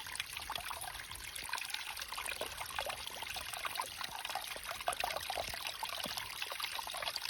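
Running water trickling and splashing steadily, with many small bubbling blips.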